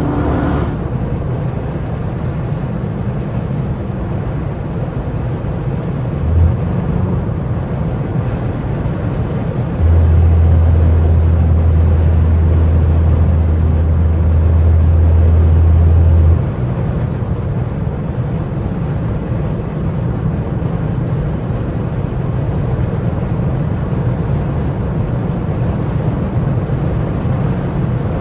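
Straight-piped Chrysler 300C's Hemi V8 exhaust heard from inside the cabin while driving: a steady low rumble, with a much louder low drone from about ten to sixteen seconds in.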